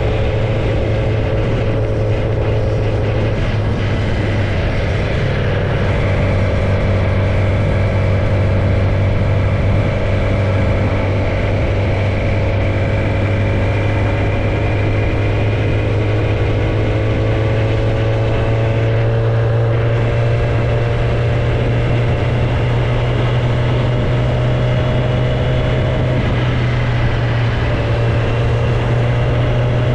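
Kawasaki ZX-10R inline-four engine running loud with no tailpipe fitted, carrying the bike along at a steady pace. Its note slowly rises in pitch through the middle of the stretch as the bike gains speed.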